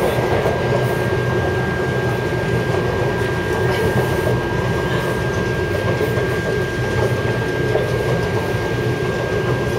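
Taipei Metro C371 train running at steady speed, heard inside the car: an even rolling rumble with a constant high-pitched whine over it.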